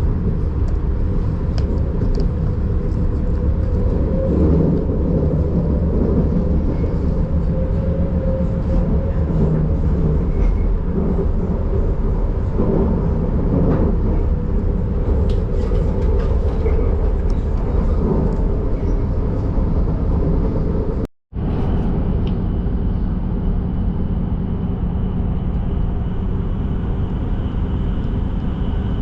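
Passenger train running along the track, a steady low rumble with faint rail clicks and a thin high whine. The sound cuts out for an instant about two-thirds of the way through.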